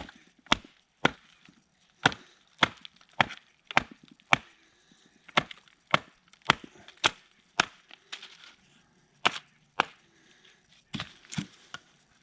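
Sharp, repeated strikes of a heavy fixed-blade knife splitting a piece of wood, about two blows a second in runs of several with short pauses, the last few softer. The knife's two-piece guard keeps the blade from going all the way through, so the wood is split in small bites.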